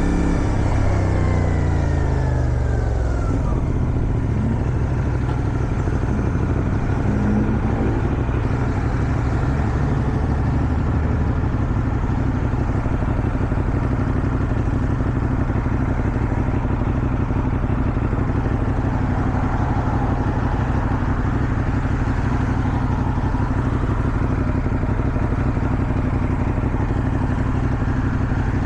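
450SR motorcycle engine under way: its revs fall over the first few seconds as it slows, then it runs at steady revs for the rest, under a constant rush of wind noise.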